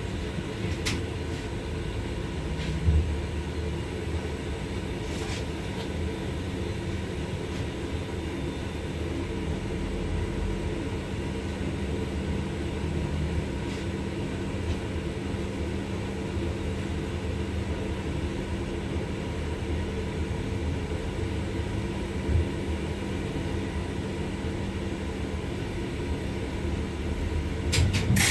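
LVS-86K articulated tram running along the line, heard from inside the car. A steady low rumble and hum, with a few short knocks and clicks, one about three seconds in and a couple near the end.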